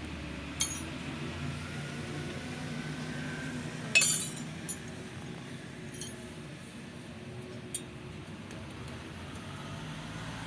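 A handful of sharp metallic clinks, the loudest about four seconds in, over a steady low hum.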